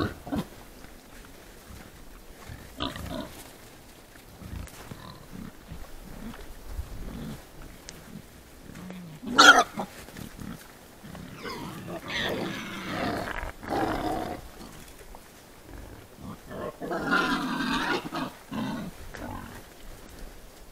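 Wild boar herd calling: a loud short call about halfway through, then two longer rough calls a few seconds apart.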